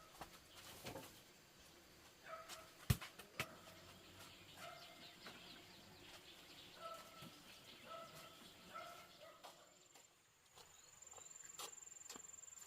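Short clucking calls from a hen, repeated about eight times, faint. A sharp knock comes about three seconds in, and near the end a steady high-pitched insect drone starts.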